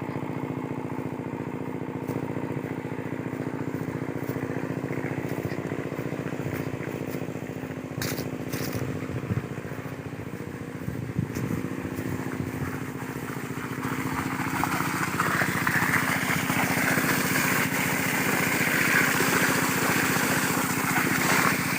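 Single-cylinder diesel engine of a farm water pump set running steadily. About two-thirds of the way through, a rushing hiss swells up over it and becomes the loudest sound.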